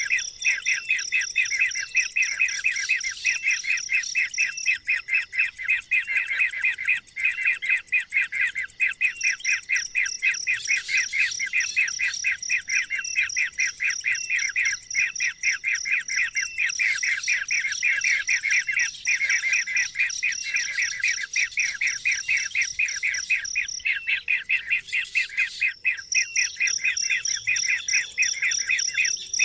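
A bird chirping in a fast, unbroken run of short repeated notes. A steady high-pitched tone runs behind it and breaks off briefly a few times.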